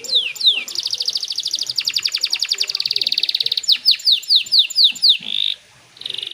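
Domestic canary singing: fast trills of rapidly repeated high notes, then a run of descending whistled sweeps about four a second, closing with a short buzzy note and a brief pause near the end.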